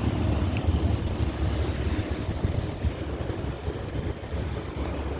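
Outdoor air-conditioning units running, a steady whoosh of fans, with wind rumbling and buffeting on the microphone.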